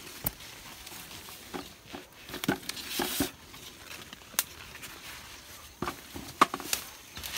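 Dry corn leaves and husks rustling and crackling in short irregular bursts as someone moves among the cornstalks picking ears of green corn.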